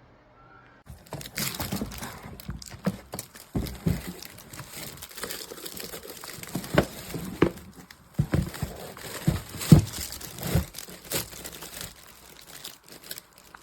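Irregular crinkling and rustling with many small sharp clicks and knocks, as of something being handled. It starts about a second in and stops just before the end.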